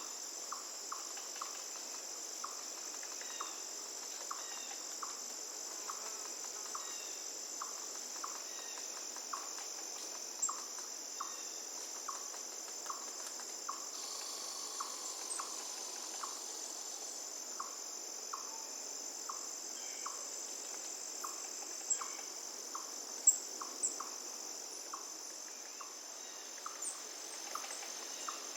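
Crickets trilling steadily and high-pitched over the even rush of a flowing river, with a short tick repeating about twice a second. A few brief bird chirps come in near the end.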